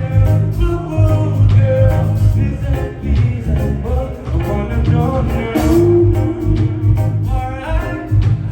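Live reggae band playing: a heavy bass line and drums under guitar, with a voice singing over them.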